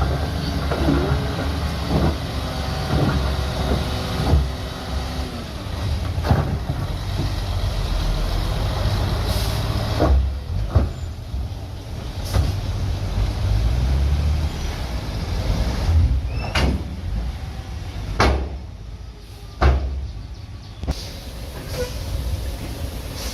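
Heavy diesel earthmoving machinery running with a steady low rumble, broken by a series of sharp metallic clanks and knocks as dirt is worked.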